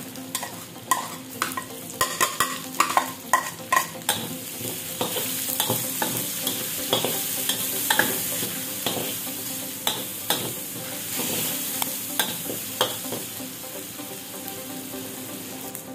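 Diced onion and garlic sizzling in hot oil in a metal wok while a spatula scrapes and clacks against the pan as it stirs. The clacks come thick and fast in the first few seconds; after that the sizzle grows steadier and stronger, with only occasional knocks.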